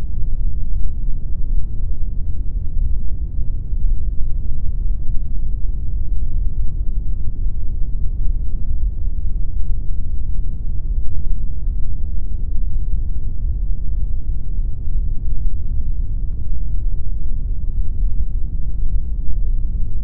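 Steady, unchanging pink noise: an even, featureless rush weighted heavily toward the low end.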